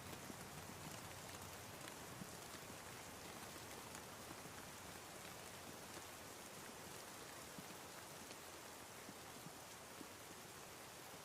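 Steady, soft rain with scattered small drop ticks.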